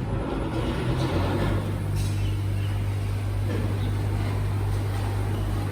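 Garbage truck running close by: a steady low hum that comes up about a second in and holds.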